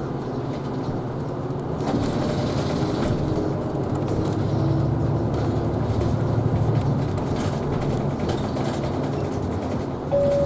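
Isuzu Erga Hybrid city bus driving, with engine and road noise heard from on board that grows louder about two seconds in. Right at the end a descending two-note chime begins, the start of the next-stop announcement.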